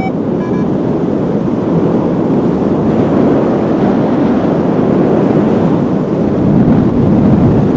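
Strong wind buffeting the microphone in flight, a steady low rumble that grows louder near the end. Two short electronic beeps from a flight variometer sound in the first second.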